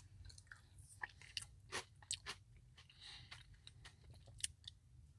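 Faint close-up chewing of a Biscoff cookie Blizzard, soft ice cream with crunchy cookie pieces, with scattered crunchy mouth clicks; the sharpest come about 2 s in and near the end.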